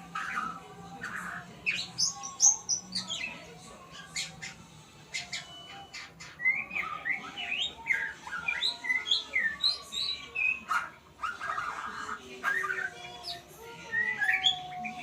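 Murai songbird (Copsychus magpie-robin or shama) singing a long, varied run of chirps, whistles and quick rising and falling notes, a bird still learning its song.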